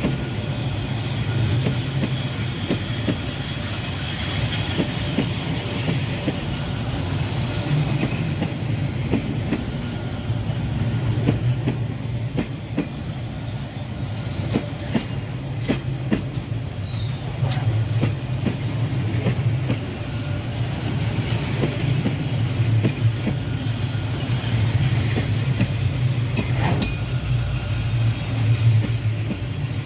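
Freight train rolling past close by, a steady low rumble with its wheels clicking over the rail joints.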